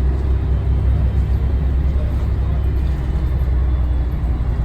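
Scania L113TRB bus's 11-litre six-cylinder DSC1171 diesel running steadily with a deep, even drone.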